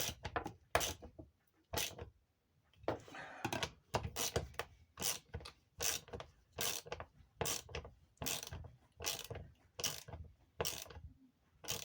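Screw being driven by hand into a wooden workbench with a screwdriver: a run of short ratcheting clicks, one or two a second, with a short pause about two seconds in and another near the end.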